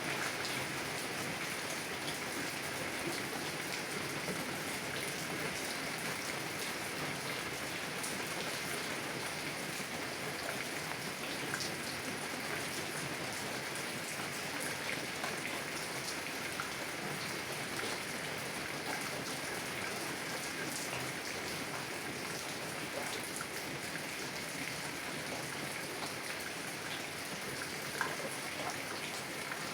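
Heavy rain falling on a car, heard from inside: a steady dense hiss with many small drop ticks scattered through it.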